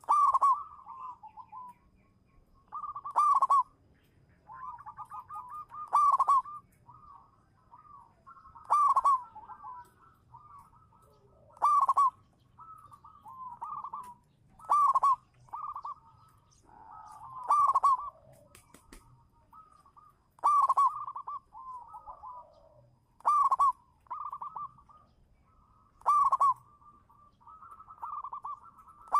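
Zebra dove (perkutut) cooing: a loud coo phrase about every three seconds, with softer rolling coos in between.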